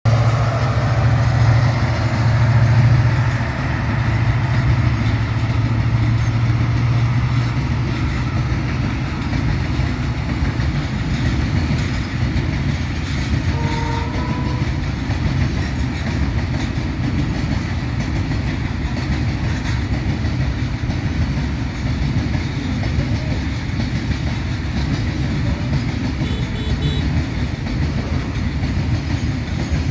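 A diesel freight locomotive passes with a strong, steady low engine hum for the first several seconds. A long rake of tank wagons then rolls by with a steady rumble of wheels on rail.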